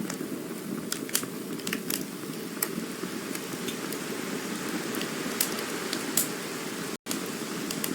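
Campfire burning: a steady low rushing hiss with irregular sharp crackles and pops of burning wood, a cluster of them in the first two seconds and more around five and six seconds in. The sound cuts out for an instant about seven seconds in.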